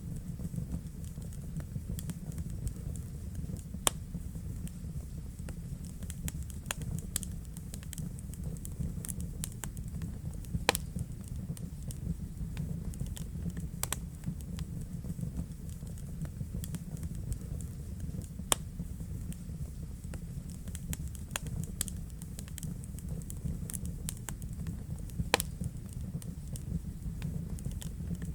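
Wood fire burning in a fireplace: a steady low rumble of flames with frequent small crackles and, every several seconds, a louder sharp pop.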